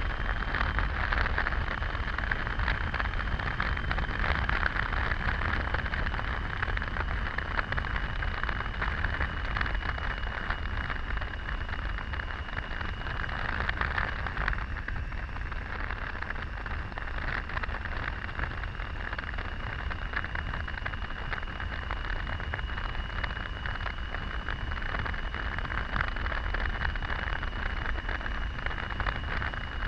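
Triumph Tiger 800 motorcycle cruising at steady speed, its three-cylinder engine and road noise under heavy wind rush over the microphone, with a thin steady high whine.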